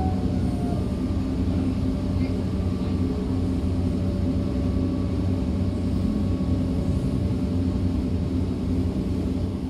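DB class 425 electric multiple unit running steadily along the line, heard from aboard: a continuous rumble of the running gear with faint steady whining tones from the traction drive.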